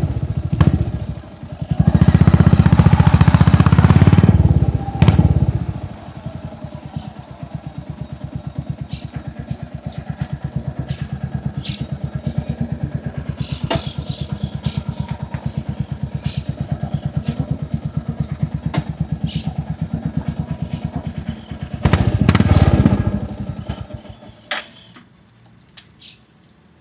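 Royal Enfield Hunter 350's single-cylinder engine through its aftermarket exhaust: loud throttle for a few seconds, then a long, even idle. Near the end it is revved once and then switched off.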